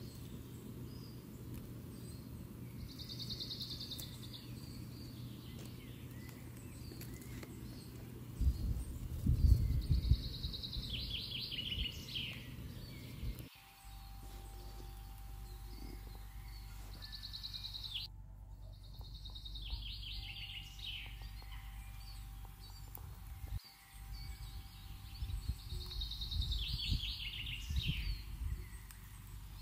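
A songbird repeats the same short song phrase four times, roughly every eight seconds, over a steady low rumble. A few low bumps about nine to ten seconds in are the loudest sounds.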